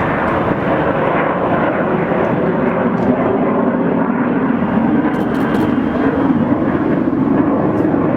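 Jet engines of the Boeing 747 Shuttle Carrier Aircraft carrying Space Shuttle Endeavour, flying low overhead: a loud, steady rushing noise that does not break.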